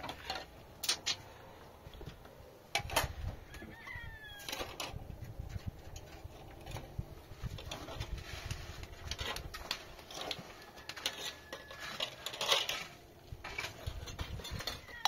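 Scattered knocks and clatter, as of objects being handled, with a few short falling bird calls in between.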